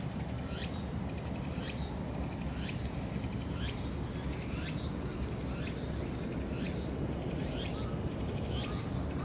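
A bird calling over and over in short, quick chirps that sweep sharply in pitch, about one or two a second, over a steady low background rumble.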